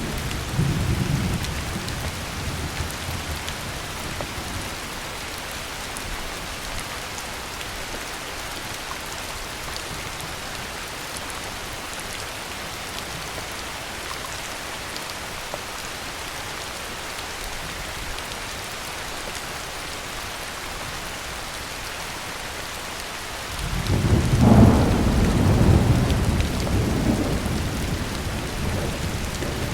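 Heavy rain falling steadily with a constant hiss, while thunder rumbles: a roll fading out in the first few seconds, then a louder clap that breaks in suddenly about three-quarters of the way through and rolls on to the end.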